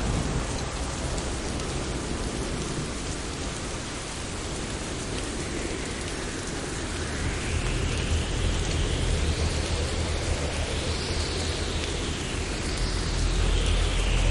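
Steady rain falling, with low rolling thunder that builds in the second half and is loudest near the end.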